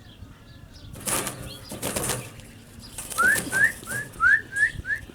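A small bird trapped in a wire cage trap flapping and scrabbling against the wire in a couple of bursts, then a quick series of short rising chirps, about three a second, in the second half. The owner takes the bird for a cactus wren.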